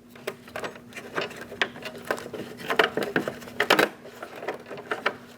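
Irregular small clicks and taps of a metal bracket being handled and fitted onto a plastic exterior door handle assembly, over a faint steady hum.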